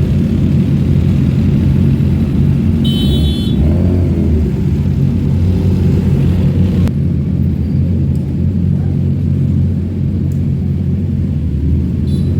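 Superbike engines idling with a steady low rumble. A short high-pitched beep sounds about three seconds in.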